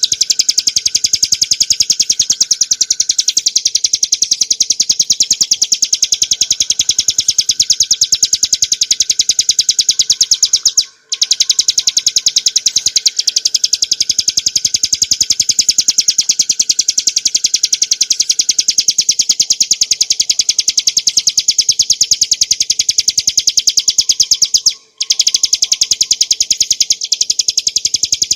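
Bar-winged prinia (ciblek gunung) singing a fast, continuous rattling trill of rapid high notes, the ngebren song used for training songbirds. It breaks off briefly twice, about eleven seconds in and near the end.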